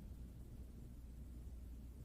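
Faint steady low hum and rumble of background noise in the recording, with no shushing or brushing.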